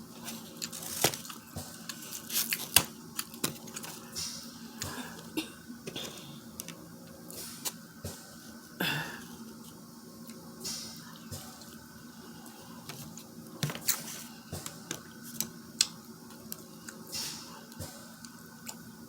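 Wet squishing and scattered small clicks of sauce-coated seafood shells, crab legs and shrimp, being picked apart and cleaned out by hand, close to the microphone.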